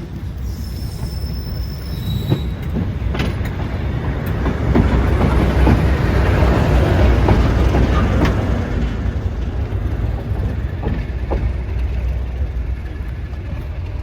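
A train running past on the rails, its rumble growing louder to a peak midway and then easing off, with scattered clicks from the wheels over the track.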